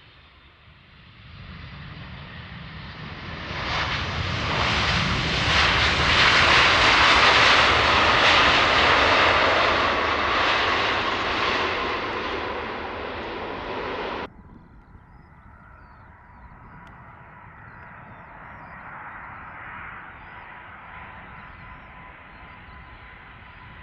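Large jet airliner on landing approach passing close by: the engine noise swells to a loud peak and fades a little, then cuts off abruptly a little over halfway through. Quieter, steady jet engine noise with a thin whine follows.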